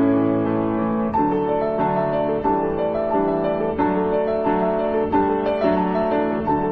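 Background piano music: a steady flow of notes in a gentle melody over sustained chords.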